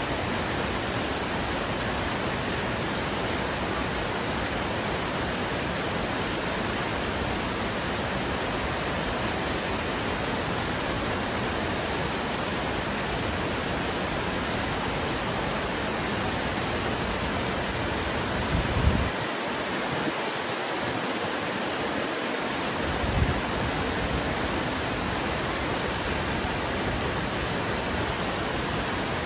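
Steady, even rushing of water, like a waterfall or fast stream, with no change in level. Two brief low thumps break it about two-thirds of the way through, some four seconds apart.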